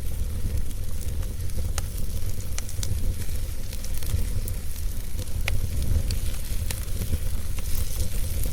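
Wood fire crackling: a steady hiss with scattered sharp pops and snaps, a few louder ones about two and five and a half seconds in, over a steady low rumble.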